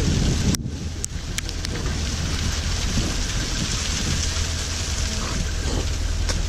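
Steady hiss of a winter storm's mixed rain, hail and snow coming down, over a low steady rumble, with a few sharp clicks in the first second and a half and one more near the end.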